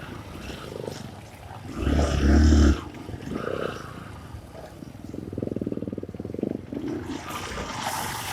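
Honda CRF150 dirt bike's single-cylinder four-stroke engine running and revving in bursts, with a loud throttle blip about two seconds in and lower, uneven running between.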